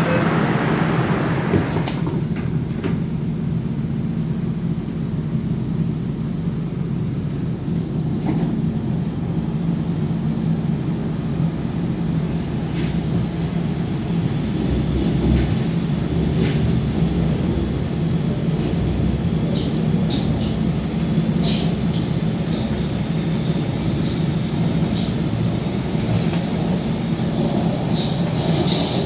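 MTR K-Train electric metro train running, heard from inside the car: a steady low rumble of wheels on rail with occasional clicks. About a third of the way in, a high whine starts rising in pitch, then levels off and holds.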